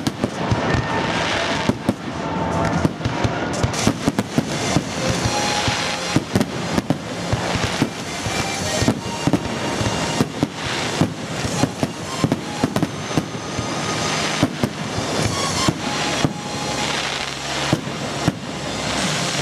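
Fireworks display: aerial shells bursting in rapid, irregular succession, many sharp bangs one after another, with music playing underneath.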